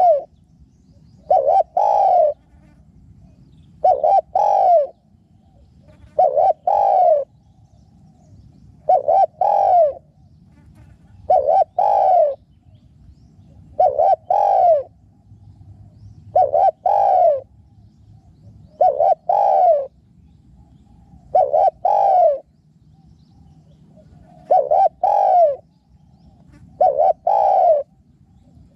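Spotted dove cooing: a short phrase of two or three coos, repeated steadily about every two and a half seconds.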